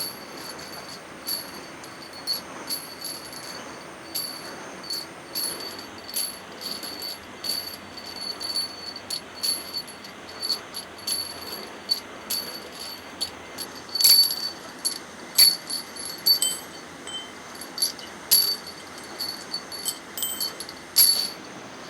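Small steel parts clinking against each other and against metal, in irregular sharp clinks with a short bright ring, about one to three a second, the loudest a little past the middle and near the end.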